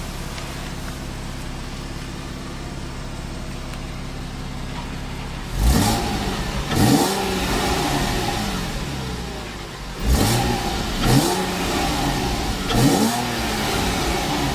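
2012 Porsche Cayman R's 3.4-litre flat-six idling steadily, then revved in five quick throttle blips from about five seconds in, each rising sharply in pitch and falling back to idle.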